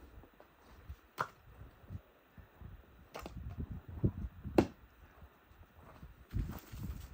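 Footsteps, heard as clusters of low thuds, with two sharp snapping clicks: one about a second in and a louder one about four and a half seconds in.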